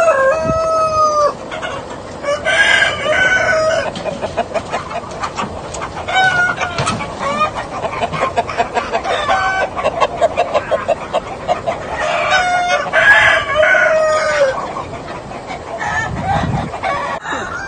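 Chicken flock: roosters crowing, with long drawn-out crows near the start, about three seconds in and again around twelve to fourteen seconds in, over steady clucking of hens.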